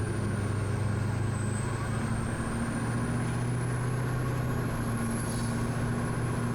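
Steady drone of a vehicle on the move, heard from inside: a low engine hum under even road noise, with a thin high whine that wavers slowly in pitch.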